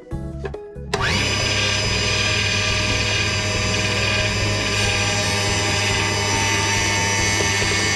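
A power tool's motor spins up about a second in and then runs steadily at full speed.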